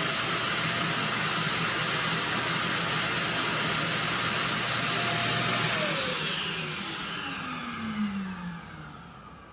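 iRobot Roomba Combo i5 robot vacuum running with a steady whine over its airflow noise, then switching off about six seconds in and spinning down, the whine falling in pitch as the noise fades.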